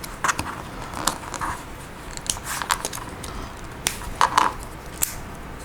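Small plastic Lego Technic pieces clicking and clattering as they are handled and sorted: irregular sharp clicks, with a cluster of louder ones about four seconds in.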